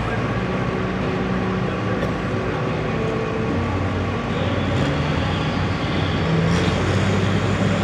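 International 560 tractor engine running steadily at the start line of a tractor pull, before the green flag; its pitch steps up a little twice in the second half.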